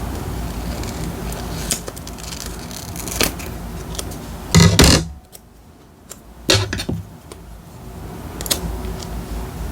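Journaling supplies being handled at a desk: short clicks, taps and rustles of paper and small stationery over a steady low rumble. The loudest handling noise comes about halfway through.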